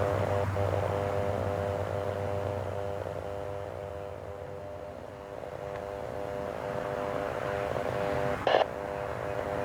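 Aircraft engines running at a distance: a steady droning hum of several tones that fades about halfway through and then builds again. A short burst of noise comes near the end.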